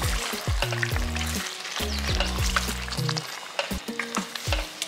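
Thick mutton curry with masala and peanut-coconut paste sizzling in an enamelled pot while a spatula stirs and scrapes through it. Background music with a deep, stepping bass line plays underneath.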